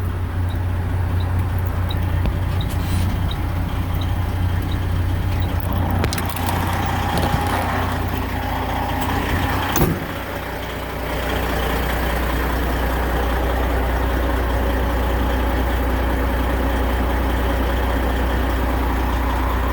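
Semi truck's diesel engine idling steadily in first gear with the clutch out, its driveshaft turning while the truck sits still: the rear end has failed and no drive reaches the wheels. A single sharp knock about halfway through, after which the engine hum carries on steadily.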